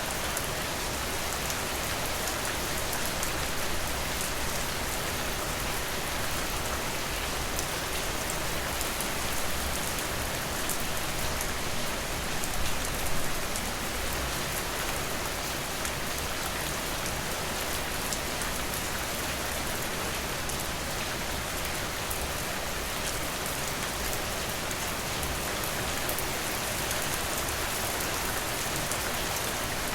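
Steady rainfall, an even hiss with fine drop ticks, swelling slightly about halfway through.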